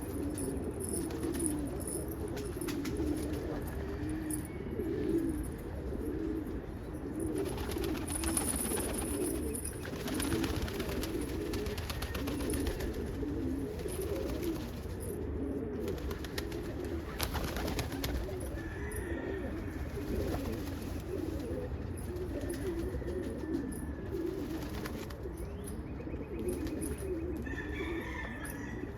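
Pigeons cooing continuously, many low coos overlapping one another without a break, with a few brief higher calls now and then.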